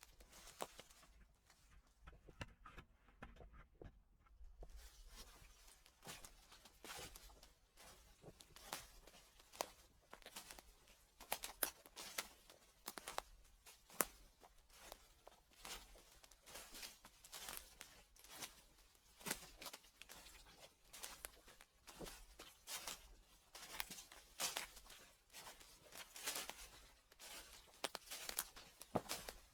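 Footsteps crunching and crackling through dry fallen leaves at a slow walking pace, faint, with a quieter pause shortly after the start.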